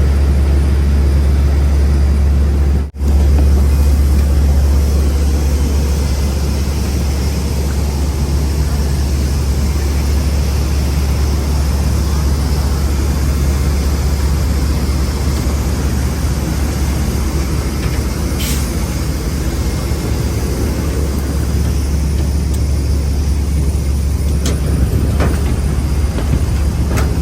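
Steady low rumble of airliner cabin noise, the jet engines and air system heard from inside the cabin, with a brief dropout about three seconds in and a few faint clicks near the end.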